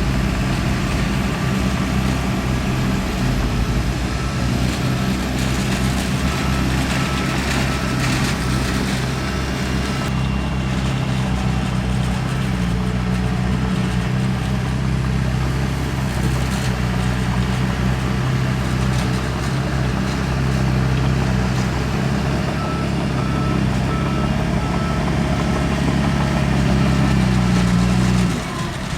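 Heavy diesel earthmoving machinery running steadily under work. A reversing alarm beeps at an even rate during the first third and again near the end.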